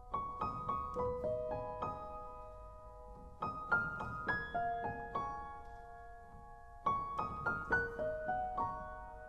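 Soft background piano music: short phrases of gently struck notes that ring on, starting afresh about every three and a half seconds.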